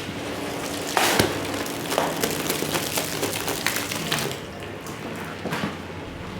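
Rug-cleaning work noise: a steady wet, hissing wash broken by several knocks and taps, the loudest about a second in.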